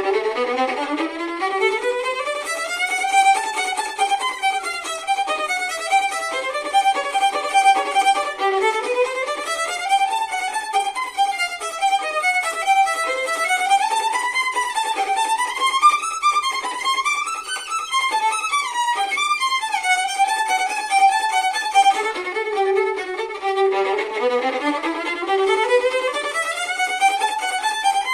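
Solo violin playing a fast passage of continuous running notes, with quick rising scale runs that climb several times.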